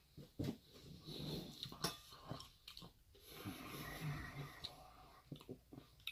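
A person chewing a mouthful of food, with scattered small clicks of a metal fork against the bowl and a couple of longer breathy stretches.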